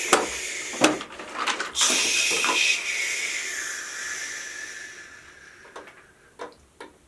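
Clicks and knocks of a plastic toy airplane being handled, then a loud hiss with a faint falling tone that fades away over about four seconds, and a few more clicks near the end.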